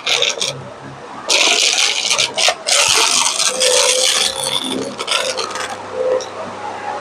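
Vacuum cleaner brushroll scraping and crunching right against the microphone in irregular bursts that start and stop every second or so.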